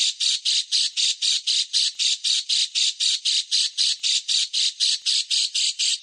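A songbird giving harsh, rasping notes in a fast, even series, about five or six a second: the rapid rough 'tembakan' type of song used in masteran recordings for tutoring caged songbirds.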